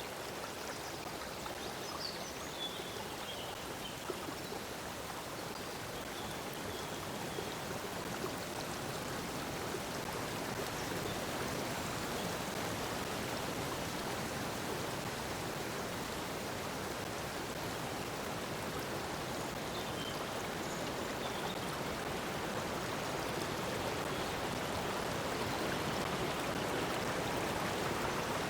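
Water flowing steadily in a stream, an even rushing sound, with a few faint bird chirps about two seconds in and again about twenty seconds in.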